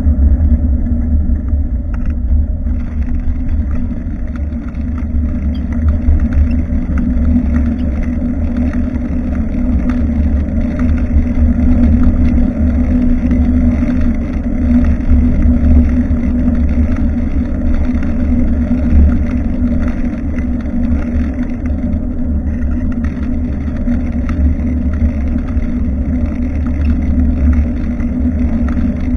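Steady wind and road rumble on a bicycle-mounted rear-facing action camera's microphone while riding, loudest in a deep low rumble with no breaks.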